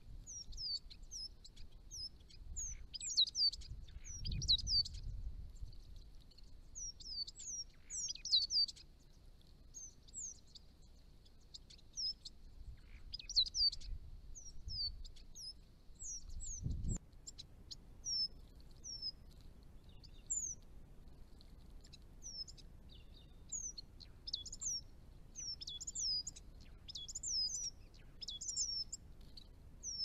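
Small birds calling with a busy run of short, high chirps, several a second in places, easing off for a few seconds about a third of the way through.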